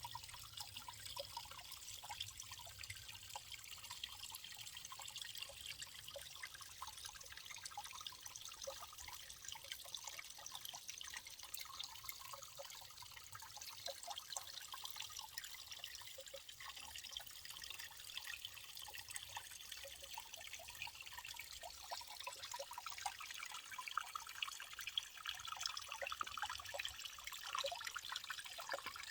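Water trickling steadily, with many small drips and splashes running through it.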